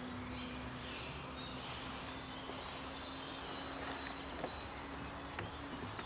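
Songbirds singing, with a quick run of high notes stepping down in pitch in the first second and fainter chirps after it, over a steady low hum.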